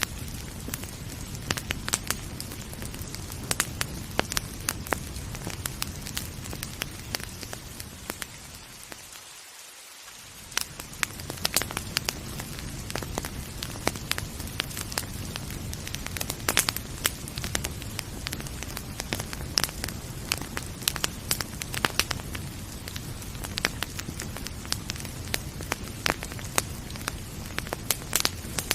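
Wood fire crackling with frequent sharp pops over a steady hiss of rain. About nine seconds in, the sound briefly dips and the low rumble drops away for about a second.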